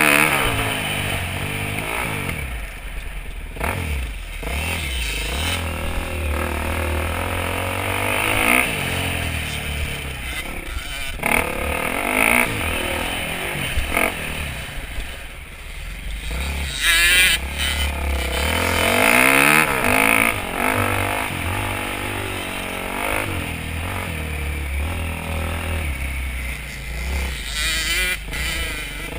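Motocross dirt bike engine revving up and dropping back again and again as it rides laps of a dirt track, its pitch rising and falling many times.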